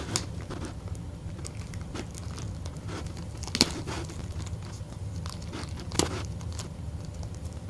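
Packaging being handled during an unboxing: light rustling and crinkling with three sharp clicks, near the start, about three and a half seconds in and about six seconds in, over a steady low hum.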